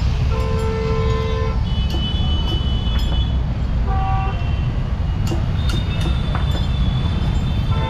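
Several vehicle horns honking one after another at different pitches, some short and some held for a second or two, over a steady rumble of street traffic.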